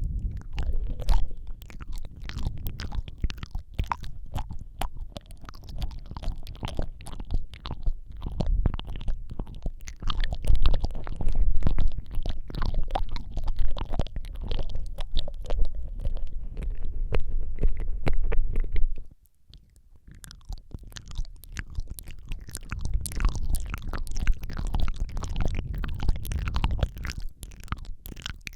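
Close-miked ASMR mouth sounds into a Rode microphone: a dense, continuous run of small wet clicks and smacks over a deep low rumble, with a brief pause about 19 seconds in.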